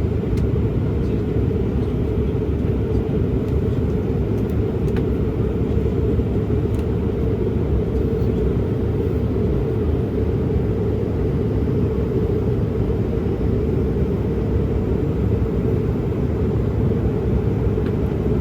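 Steady low rumble of a jet airliner in flight, its engines and airflow holding at an even level with no change in pitch.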